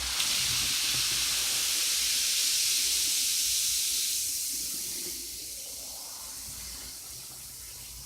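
Baking soda and vinegar reacting in a jar, a loud fizzing hiss of foam erupting that eases off after about four seconds.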